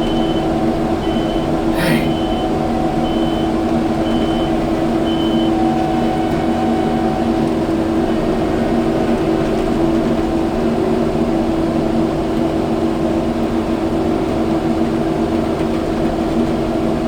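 Kubota skid steer's diesel engine running steadily while working, its backup alarm beeping about once a second for the first six seconds. A single sharp knock about two seconds in.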